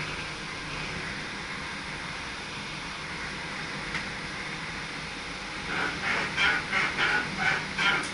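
SGM Sprinter electric train running, a steady rumble and hiss inside the driver's cab. About six seconds in, a quick run of sharp, squeaky pulses starts, about three to four a second.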